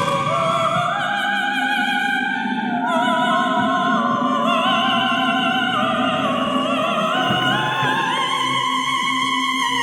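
Operatic singing with orchestral accompaniment: a voice holds long notes with vibrato, stepping gradually higher.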